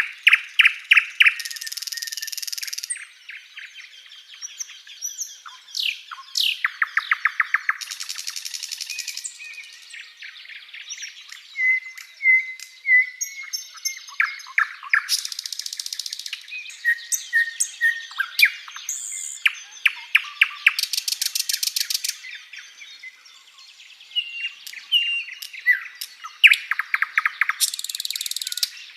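Sikatan londo, a flycatcher, singing a long varied song: quick trilled rattles, short clear whistled notes and sharp chirps, broken by dense high buzzing trills about every six or seven seconds.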